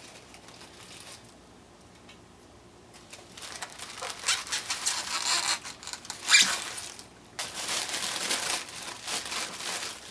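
Packing material (tissue paper and styrofoam) crinkling and rustling as it is pulled off a boxed model. It begins after about three quiet seconds, has a sharp loud crackle a little past the middle, and a short pause just after that.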